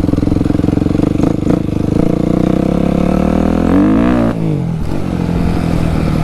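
Dirt bike engine running steadily at low speed, with a brief rev up and back down about four seconds in.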